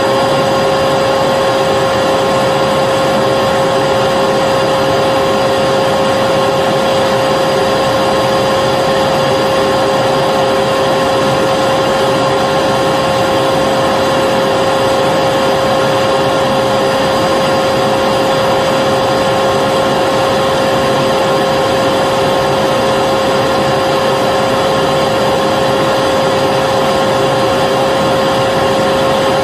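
Vacuum cleaner running continuously at a steady speed: an even rush of air with a steady motor whine.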